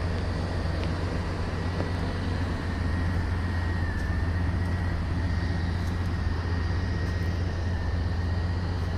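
Truck engine running steadily, an even low rumble with a faint steady high whine over it.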